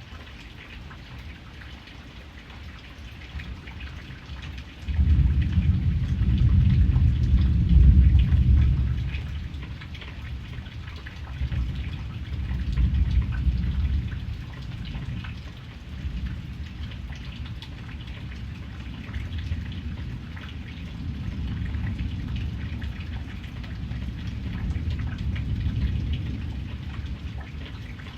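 Steady rain falling, with a low rumble of thunder that breaks in suddenly about five seconds in, swells again a few seconds later, then keeps rolling more softly.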